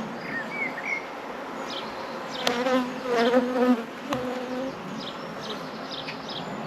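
Honeybees buzzing close around the microphone, the buzz swelling and fading as they fly past. They are agitated bees circling the beekeeper with the hive open. Two sharp clicks sound about two and a half and four seconds in.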